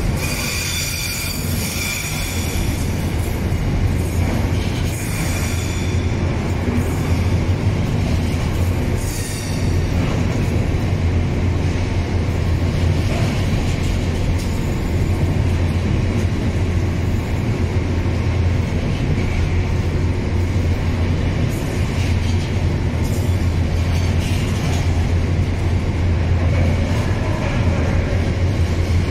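Container freight train's wagons rolling steadily past: a continuous low rumble of wheels on rail, with high-pitched wheel squeal coming and going in roughly the first ten seconds.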